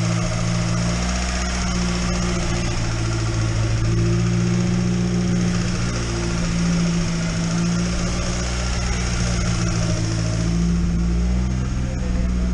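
Mazda Miata's freshly rebuilt, newly swapped 1.8-litre BP inline-four idling steadily, its idle speed wavering slightly up and down a few times.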